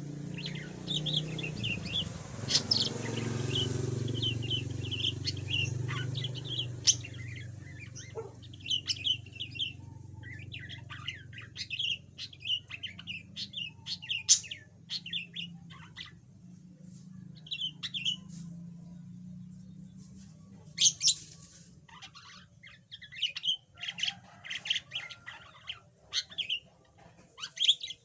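Budgerigar chattering: many quick, short chirps and warbles in rapid strings, with brief pauses between phrases. A low steady hum sits under the first several seconds.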